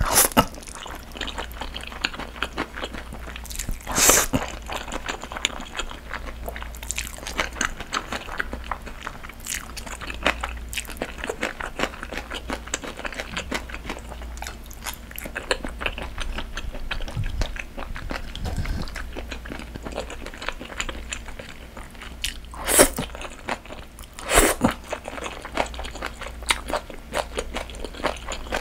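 Close-up eating sounds: chewing, crunching and wet mouth sounds of spicy steamed monkfish and somen noodles, a steady patter of small clicks, with a few louder sharp sounds about four seconds in and twice later on.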